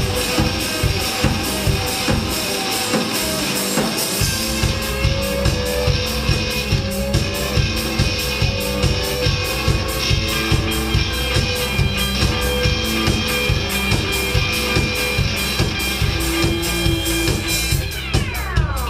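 Live band playing an instrumental passage: guitar and drum kit over a steady, even beat. The bass drops out briefly and comes back in about four seconds in, and near the end a pitch sweep falls from high to low.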